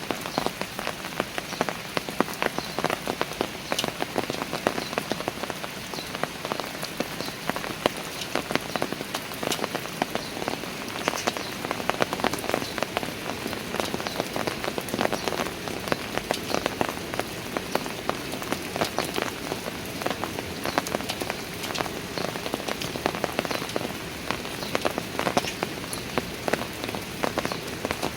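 Steady rain falling, with many distinct drops ticking and pattering on hard surfaces.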